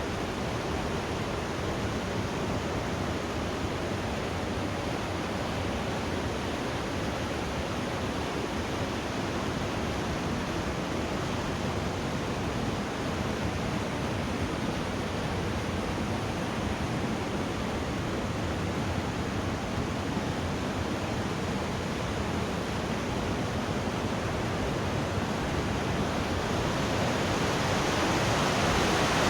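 Waterfall: the steady rush of falling water, growing louder in the last few seconds.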